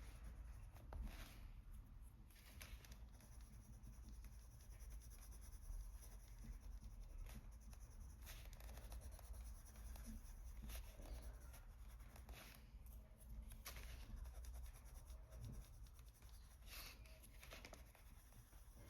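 Faint scratching of a white coloured pencil stroking over paper in short, irregular strokes, blending a yellow layer into a highlight.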